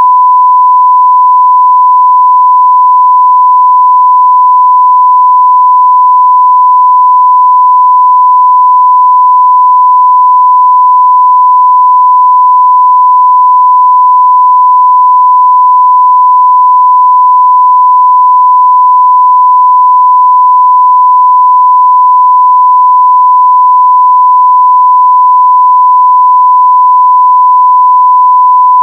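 Steady 1 kHz sine-wave test tone at full level (0 dB), one pure unchanging pitch.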